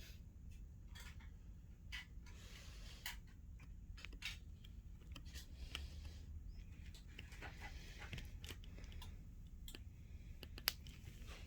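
Ceiling fan motor running with a steady low electrical hum, broken by scattered sharp clicks and ticks, one much louder about three-quarters of the way through.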